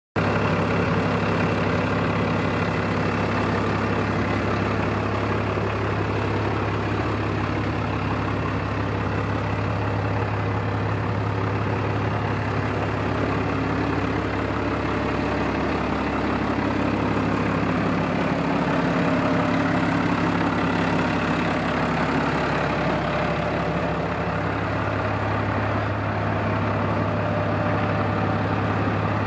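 2003 New Holland TS115 tractor's diesel engine running steadily with a constant low hum.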